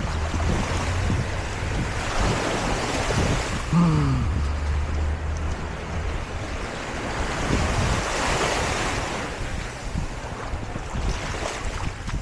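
Surf washing on a beach in swells, with wind buffeting the microphone as a steady low rumble. About four seconds in there is one short falling sound.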